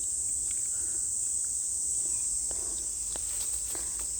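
Cicadas in a forest, a steady high-pitched chorus, with a few faint short clicks among it.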